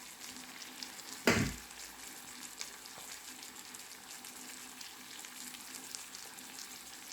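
Riced cauliflower sizzling and crackling steadily in butter in a frying pan, with one louder knock a little over a second in.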